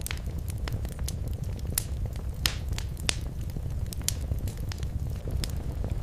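Wood fire crackling in a fireplace: a steady low rumble of flame with irregular sharp pops and snaps, a louder pop about two and a half seconds in.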